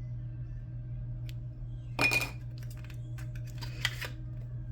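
Small metal Pokémon card tin being handled, with one sharp, briefly ringing metal clink about two seconds in and lighter clicks near the end.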